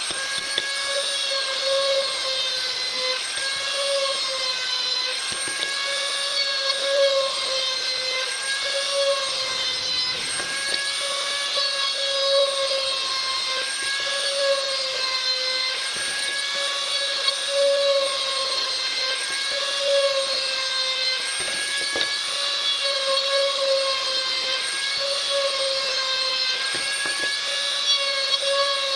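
High-speed power tool motor running continuously with a steady high-pitched whine that dips slightly and recovers every second or two as it works wood.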